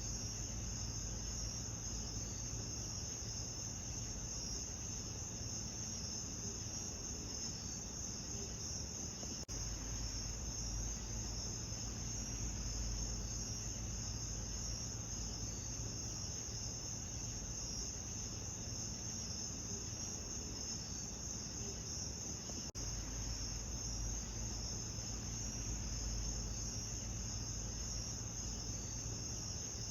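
Steady chorus of chirping insects, shrill and continuous, over a low rumble, with two brief dropouts about ten and twenty-three seconds in.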